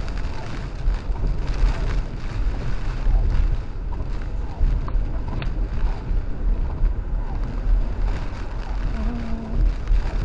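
A truck driving through tropical-storm wind and rain: a steady low rumble of engine and tyres under a haze of wind and rain noise. Two sharp clicks come about five seconds in.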